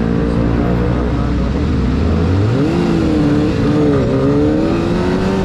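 Motorcycle engine running steady, then revving up a little before halfway, its pitch rising, dipping briefly and climbing again.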